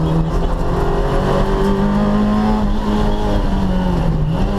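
Rally car engine under hard acceleration, heard from inside the cabin, its pitch climbing to a peak about halfway through and then easing back down near the end, over steady road and tyre rumble.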